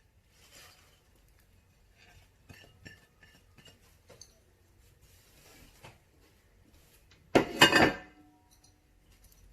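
Light taps and scrapes as chopped parsley is moved from the board into a bowl, then a loud clink as a dish is set down, about seven and a half seconds in, ringing briefly afterwards.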